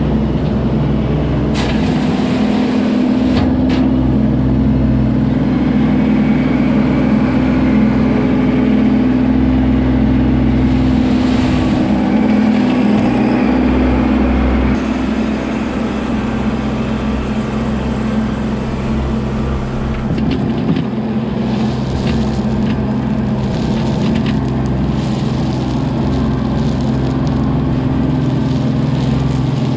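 Kubota LX2610 compact tractor's three-cylinder diesel engine running steadily at a constant pitch while driving, with a few short clicks and rattles, twice near the start and several about two-thirds of the way through.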